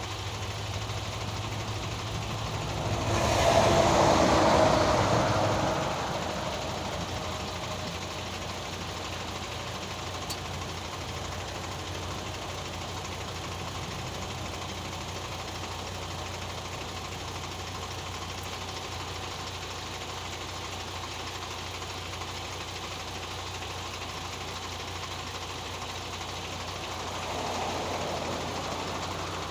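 Truck diesel engine idling steadily. A louder swell of noise rises and fades about three to six seconds in, and a smaller one comes near the end.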